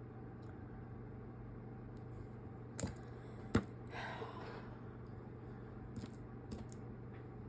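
Faint handling noises from hand-sewing work: a few small clicks and taps, the loudest about three and a half seconds in, and a brief rustle just after it, over a steady low hum.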